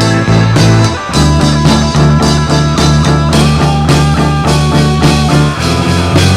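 Instrumental rock music: electric guitars and a drum kit playing a steady beat, with the chord changing about a second in and again near the end.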